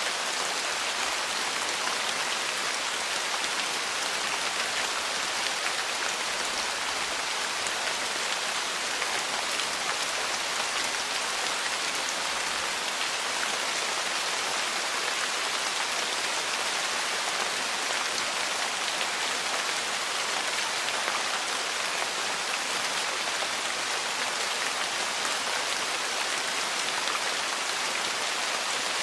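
Steady rain falling, an even hiss with a dense scatter of drops on a surface.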